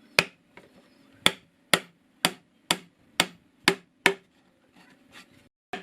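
A run of sharp knocks struck about twice a second, around eight in a row, stopping about four seconds in, then a few fainter taps.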